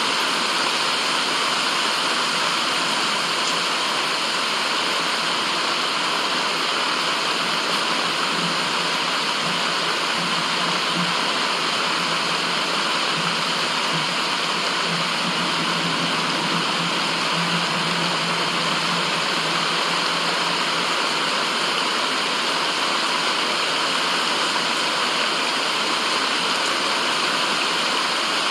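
Steady white noise: an even, unchanging rushing hiss, strongest in the upper-middle range, with a faint low hum partway through.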